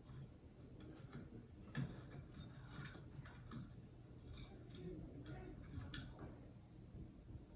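Faint, irregularly spaced clicks and light taps of hard parts being handled as a piece is put back on a ceiling fan, over a low steady hum.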